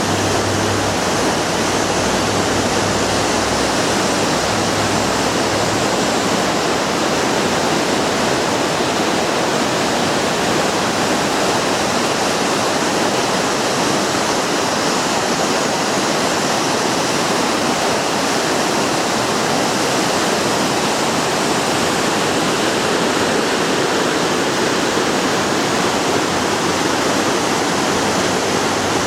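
Waterfall: a loud, steady rush of falling water close by, with no break or change.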